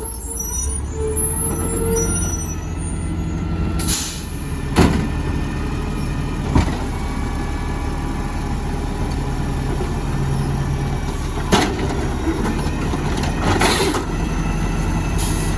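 Garbage truck engine running steadily, with several short sharp hisses and knocks from its air brakes and working parts.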